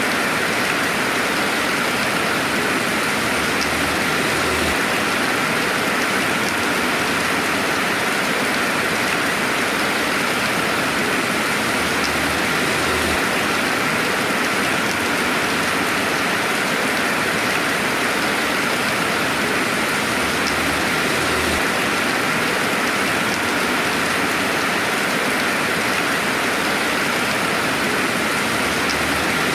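Steady rainfall ambience, an even hiss with no thunder. A faint low swell comes back about every eight seconds.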